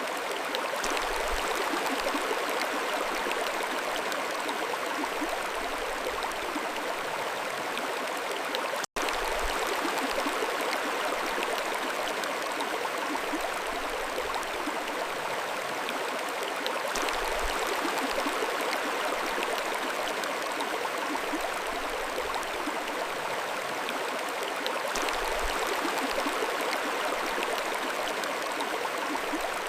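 Mountain stream flowing, a steady, even rush of water, broken by a split-second gap about nine seconds in.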